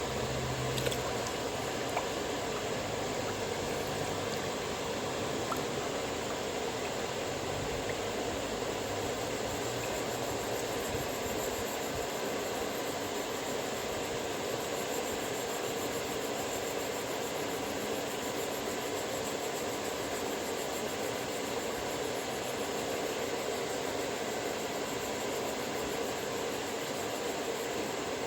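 Steady, even whir of a powered sharpening machine running while a chisel is sharpened.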